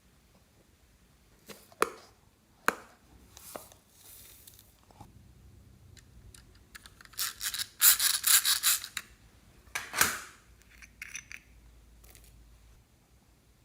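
Slime being handled and mixed: scattered sticky clicks, with a dense run of crackling and popping about seven to nine seconds in and a single pop near ten seconds.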